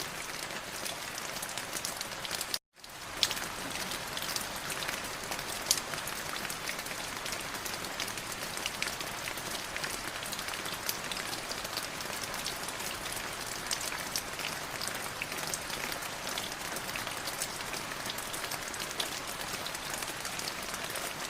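Light drizzle falling: a steady patter of rain with many small, sharp drop ticks. About two and a half seconds in it cuts out to silence for a moment, then fades back in.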